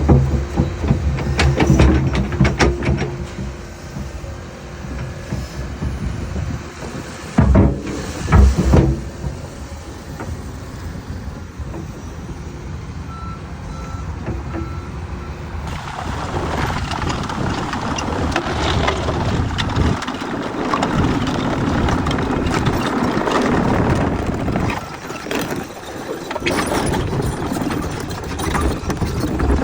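Komatsu 228 excavator's diesel engine running as the machine tracks along, with a couple of loud knocks about eight seconds in and a few short alarm beeps about midway.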